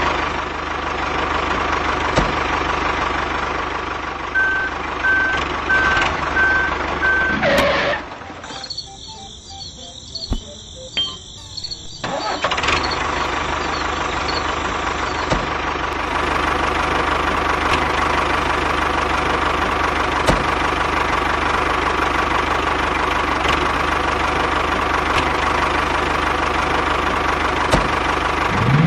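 A small motor runs steadily with a constant hum. It drops away for about four seconds, starting about eight seconds in, then starts running again.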